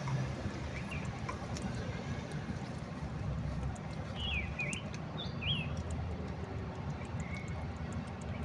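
Outdoor background: a steady low rumble, with a few short bird chirps in the middle.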